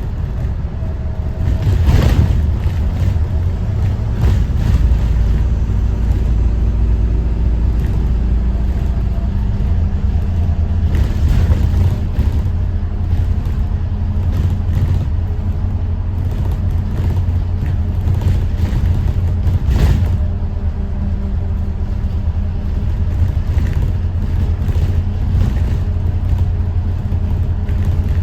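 Detroit diesel engine of a 2021 Thomas Saf-T-Liner C2 school bus running as the bus drives, a steady low rumble whose pitch shifts about a third of the way in, with a few short knocks.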